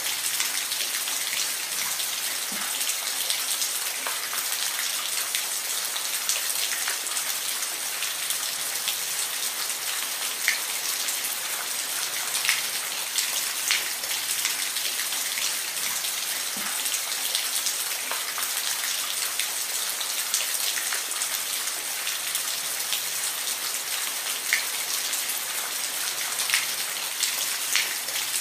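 Steady rain falling, an even hiss with the sharp ticks of single drops hitting a surface scattered through it.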